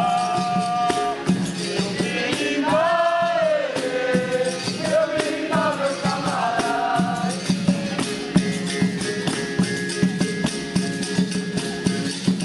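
Capoeira roda music: a single voice sings a chant over a steady beat of percussion and a berimbau. The singing fades out after about seven seconds while the instruments keep playing.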